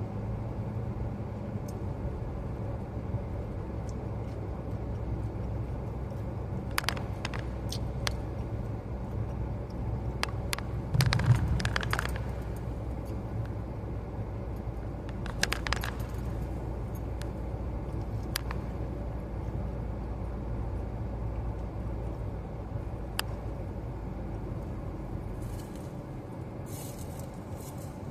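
Steady low rumble of a moving car heard from inside the cabin, with scattered light clicks and a louder thump about eleven seconds in. The low rumble falls away near the end.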